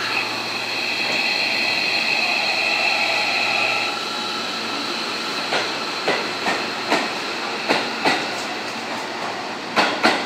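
Seibu 2000-series electric train pulling away from the platform: a steady whine for the first few seconds, then its wheels clacking over rail joints, two clacks at a time, the loudest pair near the end.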